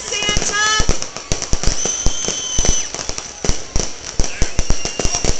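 Aerial fireworks bursting overhead: a dense, irregular run of sharp bangs and crackles.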